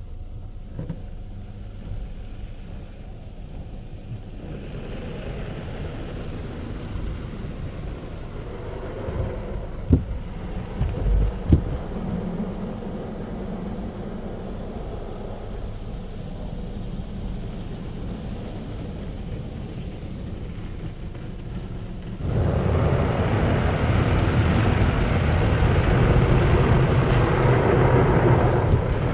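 Automatic tunnel car wash from inside the car: steady rumbling of the wash equipment and spraying water, with a few sharp thumps on the car around ten to twelve seconds in. About twenty seconds in a much louder steady rush starts suddenly, like the tunnel's dryer blowers coming on.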